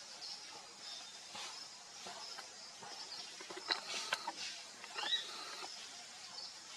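Wild birds calling over a steady high hiss: a cluster of short, sharp chirps in the middle, then a call that curves downward about five seconds in.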